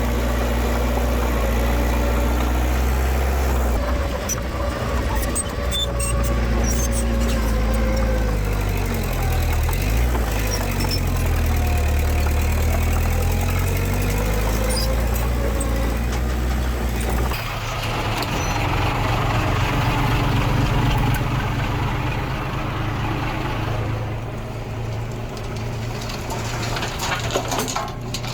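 Diesel engine of heavy earthmoving machinery running steadily, its pitch dipping and rising a few times. About two-thirds of the way through, the deep engine note drops away and a rougher, noisier engine sound takes over.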